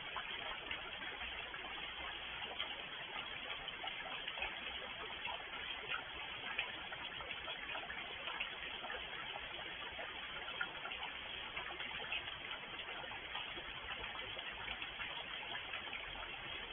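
Steady rain falling, a dense, even hiss dotted with many small ticks of individual drops striking.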